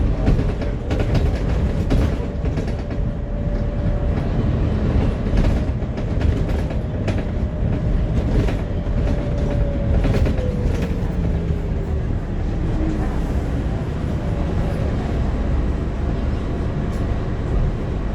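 Scania E400 double-deck bus running: a steady engine and road rumble with frequent rattles, and a whine that holds steady, then falls in pitch about ten seconds in.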